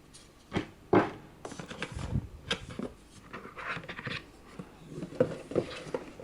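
Handling of a plastic charger and its plug adapters while unboxing: a few sharp knocks and clicks, the loudest about a second in, with rustling and scraping of packaging between them.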